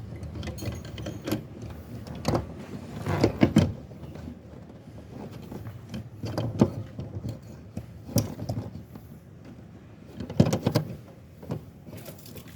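Irregular clicks and knocks of a fuel pump assembly and its lock ring being handled and seated by hand, with the loudest clusters of knocks a few seconds in and near the end.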